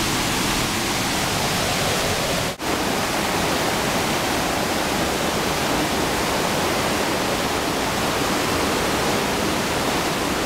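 Steady rush of flowing stream water, cutting out briefly about two and a half seconds in.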